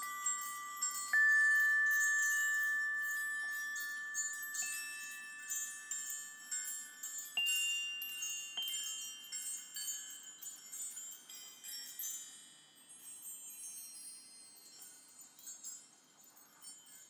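Struck bell-like metal notes, glockenspiel-type, sounding one at a time about five times and each ringing on over a shimmering high chime tinkle; the ringing dies away over the last few seconds.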